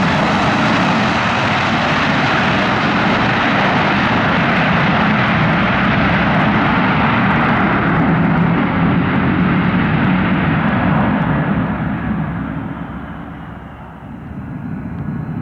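Fixed-wing aircraft engine noise, loud and steady, then fading over the last few seconds as the plane moves away, its higher pitches dying off first.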